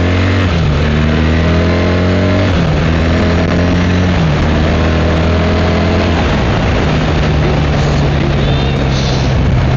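BMW R1300GS boxer-twin engine accelerating hard through the gears: the note climbs and drops back with four seamless upshifts, then holds steady at speed, under heavy wind rush on the microphone.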